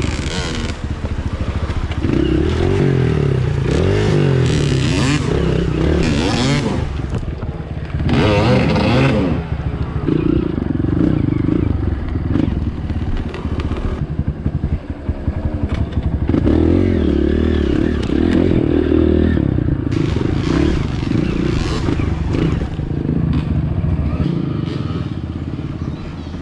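Dirt bike engine running on a trail, the revs surging in several short bursts as the throttle is worked, with clattering along the way.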